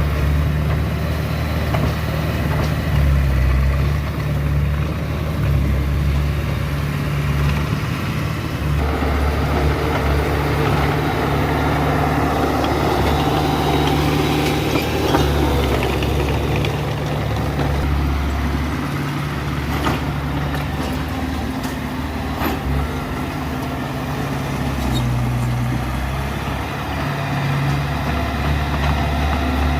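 Diesel engine of earthmoving machinery running steadily, growing fuller and busier about a third of the way in as it works under load, with a few faint metallic clanks.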